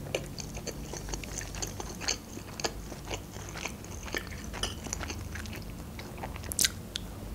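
Close-miked chewing of soft, cheesy fusilli pasta: a string of small wet mouth clicks and smacks, with one sharper, louder click near the end.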